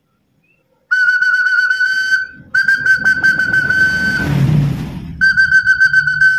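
Hand-turned wooden bird-call whistle, made to sound like a zebra dove, blown three times. Each blow is a steady high tone with a fast fluttering trill; the first two come close together and the third follows about a second later.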